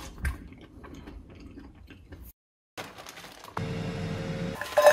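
Someone chewing crunchy air-fried chips: small crisp crackles over a low rumble. After a brief break, a steady hum sets in about three and a half seconds in, with a louder ringing sound near the end.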